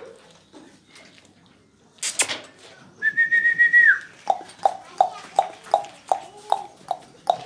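A person whistles one held note that drops away at the end. It is followed by a run of short, evenly spaced clicking sounds, about three a second.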